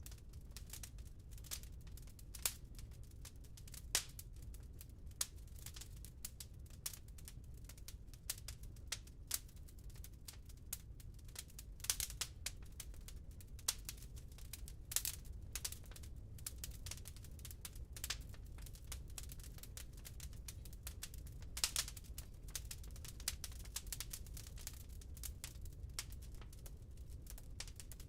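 Wood burning in a fireplace: irregular sharp crackles and pops, a few louder than the rest, over a low steady rumble.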